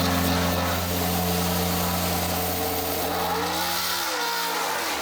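Yamaha YZR-M1 MotoGP racing motorcycle engine running with a steady drone, then revving up and back down about three and a half seconds in.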